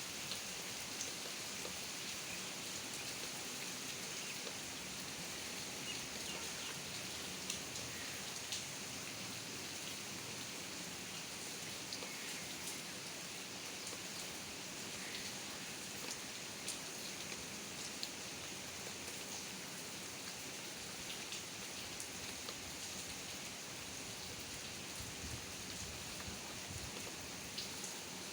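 Steady rain falling, with scattered individual drops ticking out over the constant hiss.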